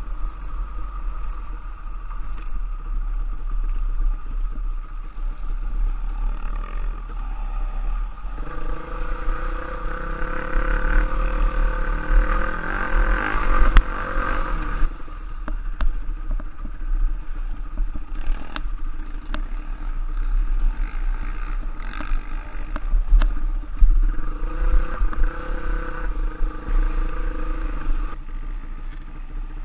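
Off-road trail motorcycle engine running under changing throttle: its note climbs and stays strong from about eight seconds in until about fifteen seconds, then drops back, and rises again for a few seconds near the end. A few sharp clicks and clatter sound over it.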